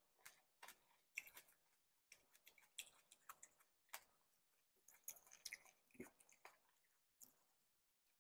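Close-miked chewing of a cherry tomato with the mouth closed: a quick, irregular run of wet clicks and squishy smacks that thins out and stops about a second before the end.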